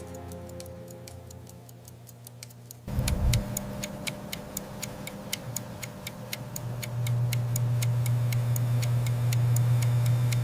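Steady ticking of a timepiece, about five ticks a second, over a sustained low drone. The drone gets louder suddenly about three seconds in and swells again past the middle.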